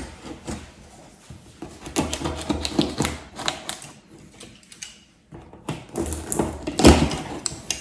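Cardboard box and packaging being opened and handled: irregular clicks, taps and rustles, with a brief lull about five seconds in and louder handling near the end.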